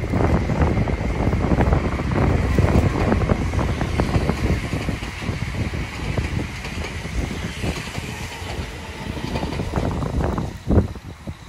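Meitetsu 3300 series electric train running past on the near track: a loud rumble with the wheels clattering over the rails and one sharp knock near the end, after which the sound dies away.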